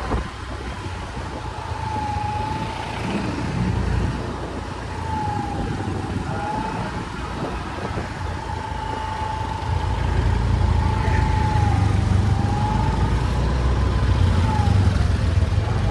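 Bus running: a low engine rumble under a thin, high whine that dips and rises a little in pitch, growing louder about ten seconds in.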